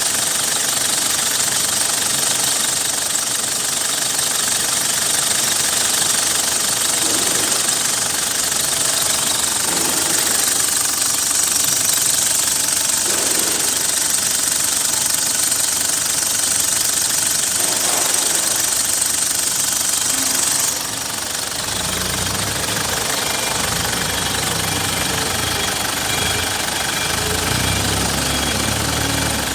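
Ford Ranger 2.5-litre engine running steadily with a knocking, clattering tone. About two-thirds of the way through, the sound turns lower and fuller.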